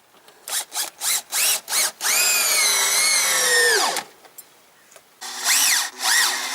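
Electric drill run in a series of short trigger bursts, its whine rising and falling in pitch, then held steady for about two seconds before spinning down. After a short pause, two more quick bursts follow near the end.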